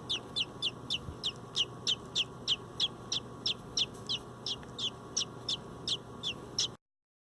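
Young robin giving a rapid series of short, high, falling chirps, about three a second, typical of a hand-fed bird begging for food. The calls stop abruptly near the end.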